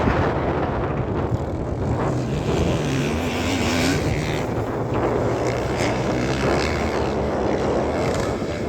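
Motocross bike engines running and revving, their pitch rising and falling as the throttle is worked.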